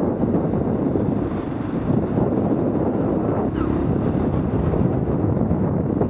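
Wind rushing over the microphone of a moving Honda XR250 dirt bike, with its single-cylinder four-stroke engine running underneath. The noise is steady throughout.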